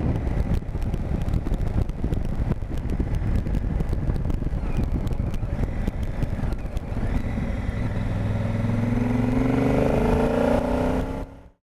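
Honda Africa Twin's parallel-twin engine under way, heard with wind buffeting the helmet camera. In the last few seconds the engine note rises as the bike accelerates, then the sound cuts off suddenly.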